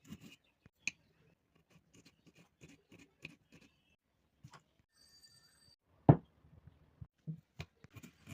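Kitchen clatter of jhal muri being mixed together: a run of light clicks, crackles and soft knocks from dry crunchy ingredients and utensils, with one sharp knock about six seconds in. A brief thin high tone sounds just after five seconds.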